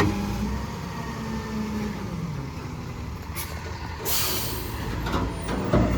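Refuse truck's diesel engine running, with a sharp burst of air-brake hiss about four seconds in, preceded by a shorter puff of air.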